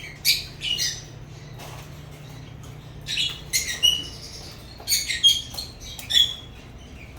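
African lovebirds chirping and squawking: a string of short, sharp, high-pitched calls in irregular clusters, a few seconds apart.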